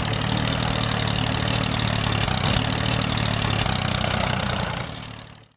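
A DIY mini tractor's small engine running steadily at idle with a fast, even pulse. It fades away near the end.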